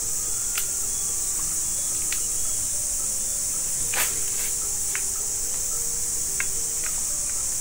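Steady, high-pitched chorus of insects, with scattered short clicks and a few faint brief calls beneath it.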